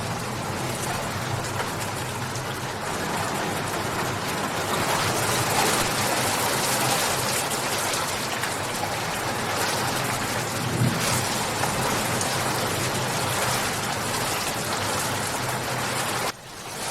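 Steady rain falling, a dense, even hiss of drops. It cuts out for a split second near the end, then comes back.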